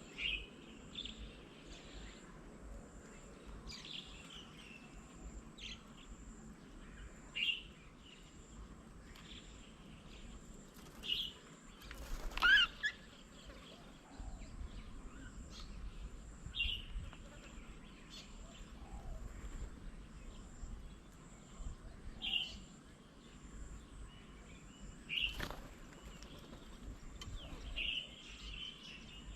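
Outdoor birds calling: short high chirps every few seconds, with one louder call about twelve seconds in, over a low background rumble.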